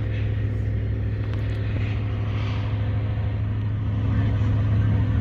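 A steady low engine rumble with a deep hum, growing a little louder about four seconds in.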